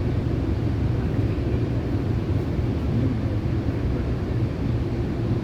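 Steady low rumble of a moving Rail Runner commuter train, with no breaks or sudden sounds.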